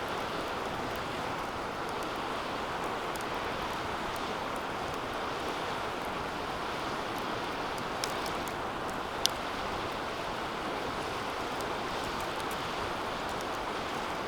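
Wood fire burning in a DOD Mecha Moe Fire 2 fire pit: a steady rushing hiss, with a few faint crackles about eight seconds in and one loud sharp snap just after nine seconds.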